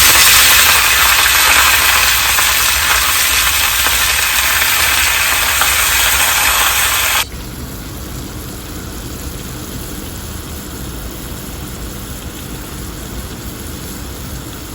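Hot oil with spices sizzling loudly in a small karahi as greens (saag) are cooked. About seven seconds in the loud sizzle cuts off abruptly, leaving a quieter steady hiss.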